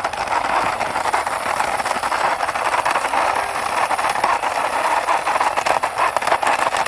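Small toy motorbike pushed along by hand, its plastic wheels rolling and rattling steadily over the ground.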